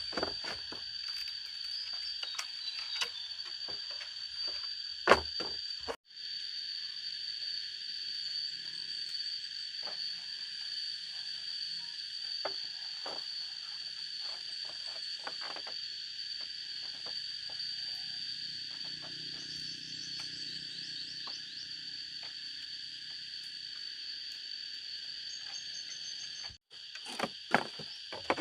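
Steady high-pitched drone of an insect chorus, with scattered light knocks and taps and one louder knock about five seconds in.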